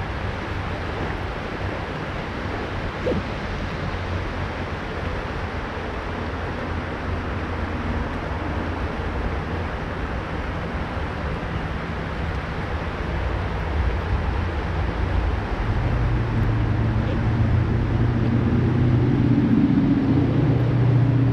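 Steady rush of a mountain river, with low rumble in the bass. Over the last few seconds a low, steady hum rises out of it and grows louder.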